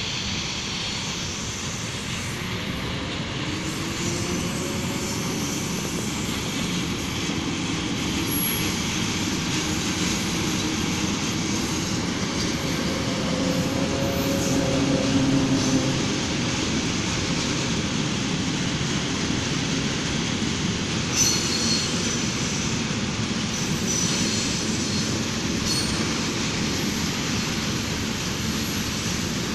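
Train running past on the tracks: a steady rumble of wheels on rail that swells to its loudest about halfway through, with a brief high wheel squeal about two-thirds of the way in.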